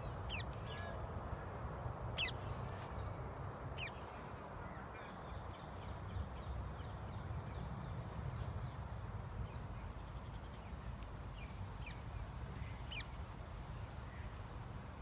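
Birds calling in a park with short, high, falling chirps, a few spaced seconds apart and thinning out in the middle, over a steady low rumble.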